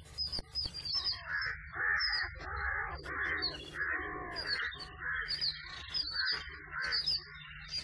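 A bird calling over and over in quick succession, two or three harsh calls a second, each topped by a short high chirp.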